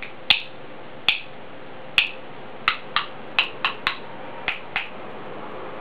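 Grey parrot making about ten sharp clicks, irregularly spaced and coming closer together in the middle.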